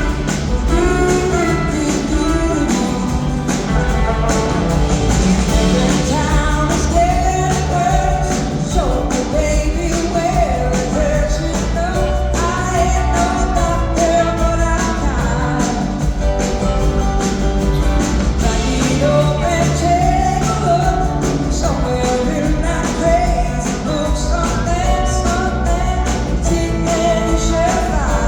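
A live rock band playing a song with lead vocals over electric guitar, bass and drums; singing runs through most of it.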